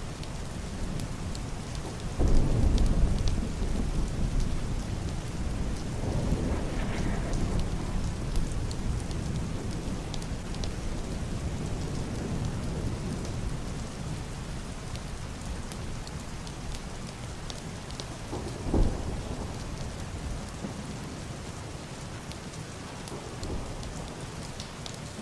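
Heavy rain falling on a roof and window glass: a steady hiss with scattered ticks of drops, over low rolling thunder. The thunder swells suddenly about two seconds in and fades over several seconds. A second, shorter clap comes about three-quarters of the way through.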